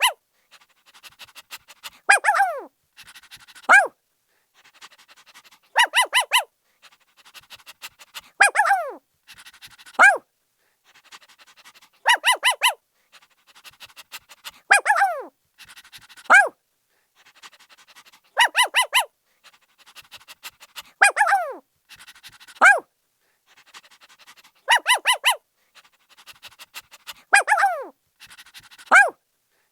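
Puppy barking in bursts of short, high yaps, each burst followed by yelps that slide down in pitch. The pattern repeats about every six seconds.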